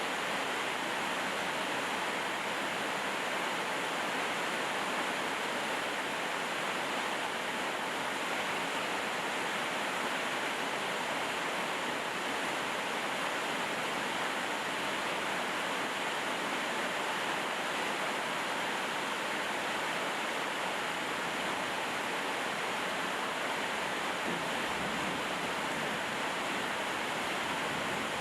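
Steady rain falling, an even hiss with no breaks or changes in strength.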